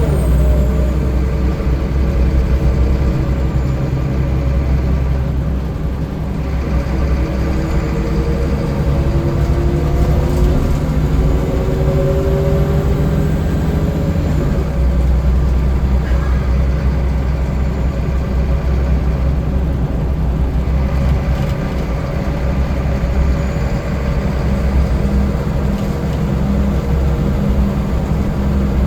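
Scania L94UB city bus engine and drivetrain running under way, a steady deep drone with a rising whine as it pulls away and gathers speed partway through.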